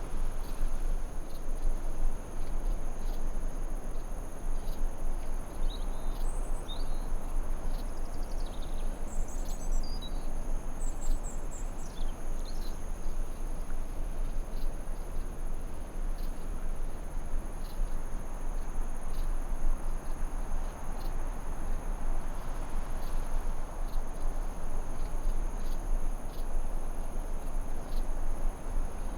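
Forest ambience: crickets trilling steadily over a constant low hiss. A few short, quick bird chirps come between about six and twelve seconds in.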